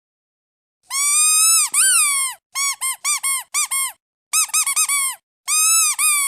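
Rubber duck squeeze toy squeaking, starting about a second in: two long squeaks, then a quick run of short squeaks, another fast cluster, and a final long squeak near the end.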